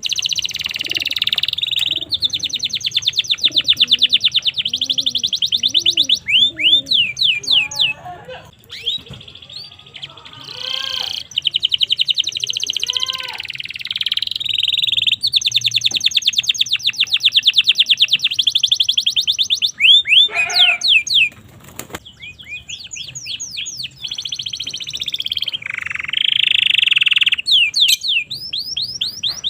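Domestic canary singing a long, loud song of fast trills, each a rapid run of repeated notes, broken by quick sweeping whistles between phrases.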